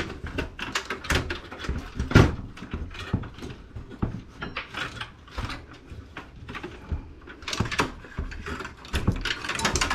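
Metal clicks, knocks and rattles of a desktop PC's power supply unit and steel case being handled, with one louder knock about two seconds in.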